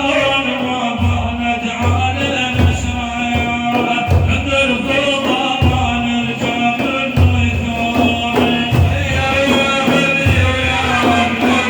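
Madih, a devotional praise song for the Prophet: a singing voice carries a melody over steady, repeating hand-drum beats.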